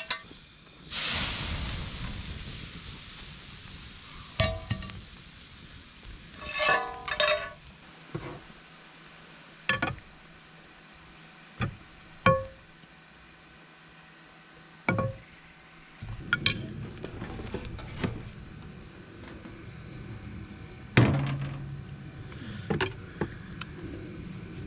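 Metal utensils and cookware clinking and knocking, a dozen or so separate strikes, over a hiss that rises about a second in and fades slowly, with insects chirring steadily.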